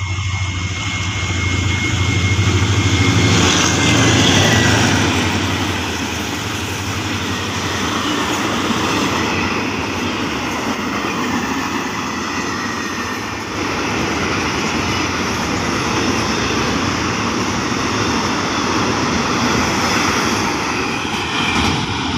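Hitachi diesel-electric locomotive 4511 running close by with a deep engine drone, with a thin high tone that dips in pitch about four seconds in. Then a long container freight train rolls past with a steady rumble of wagons on the rails.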